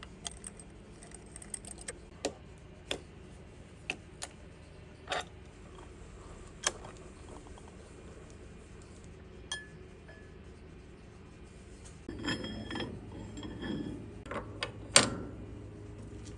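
Small metal parts and tools being handled: scattered light metallic clicks and taps, a short stretch of clattering and scraping about twelve seconds in, then one sharp metallic clank that rings briefly near the end.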